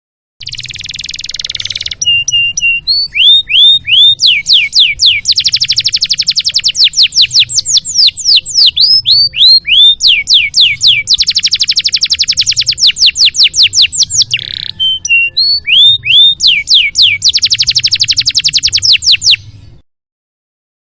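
Domestic canary singing: a song of rapid trills of repeated down-slurred notes, switching from one phrase to the next, opening with a short buzzy phrase and stopping abruptly near the end.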